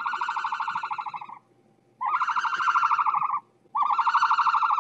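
An animal call repeated three times with short gaps between. Each call is a high, rapidly pulsing note lasting about a second and a half.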